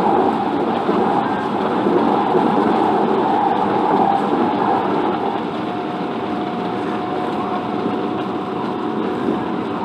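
MTR Ma On Shan Line IKK-Train electric multiple unit running between stations, heard from inside the car: a continuous rumble of wheels on rail. A thin steady whine comes in about halfway through and fades near the end.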